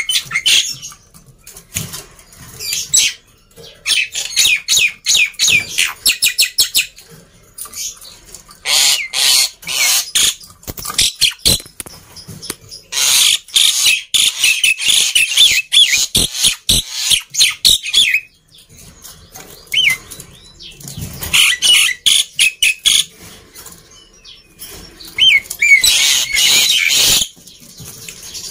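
Black-winged starling calling loudly: phrases of harsh, rapid chattering and clicking a few seconds long, broken by short pauses, with a few brief whistled notes near the end.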